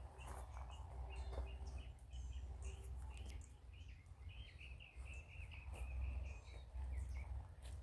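Small birds chirping, with a quick run of chirps from about four to seven seconds in, over a steady low rumble.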